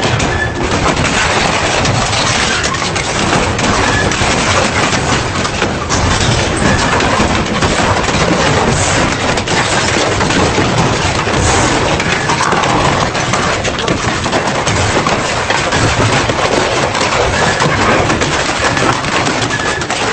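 Double-shaft shredder tearing through metal: a loud, continuous clatter of rapid cracks and crunches with no pauses.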